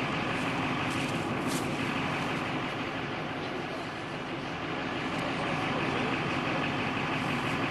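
Diesel truck engine running steadily, an even drone with no sudden events.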